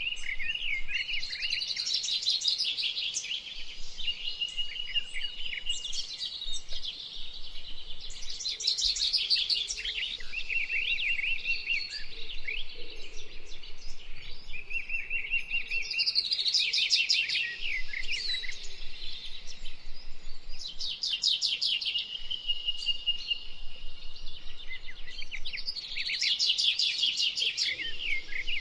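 Songbirds singing, with bursts of rapid high trills about every four to five seconds.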